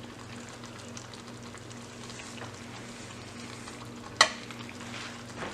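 Food sizzling steadily in a metal ration tray heating over a burning solid fuel tablet, with a faint low hum underneath and one sharp click about four seconds in.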